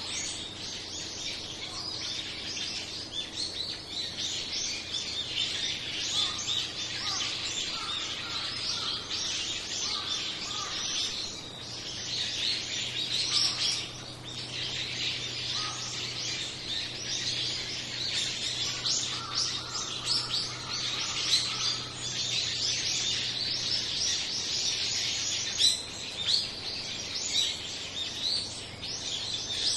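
A large flock of small birds chirping together, many short overlapping calls with no pause.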